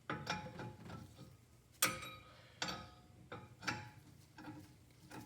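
Irregular sharp metallic clicks and knocks, about ten, some with a brief ring, loudest a little under two seconds in: metal parts and tools clinking while a car's front drive axle is worked into place.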